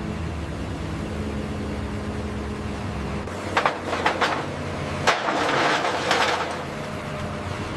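A heavy machine's engine running steadily, its pitch shifting a little about three seconds in. Several sharp metallic knocks and a clattering burst in the middle are the loudest sounds.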